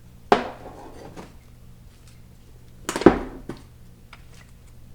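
Metal automatic-transmission parts clanking as they are handled and set down during a teardown: a sharp clank just after the start and a louder one about three seconds in, with a few light ticks between.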